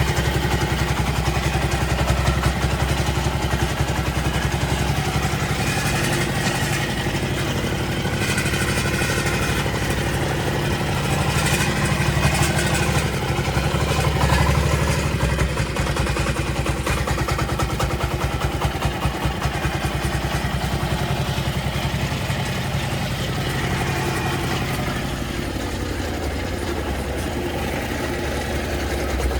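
Tractor engine running steadily, with a mechanical clatter; its note shifts and eases off a little near the end.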